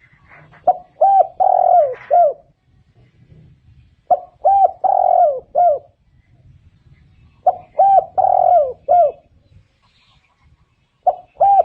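Spotted dove cooing its repeated phrase: two short coos, a longer drawn-out coo, then one or two short ones. The phrase comes three times, about every three and a half seconds, and starts again near the end.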